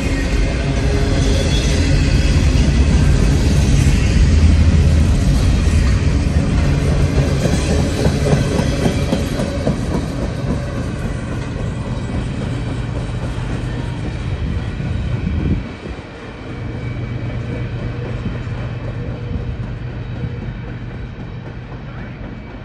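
Intermodal freight train cars rolling past: a steady rumble of wheels on the rails with clickety-clack. The rumble drops suddenly about two-thirds of the way through and carries on more quietly.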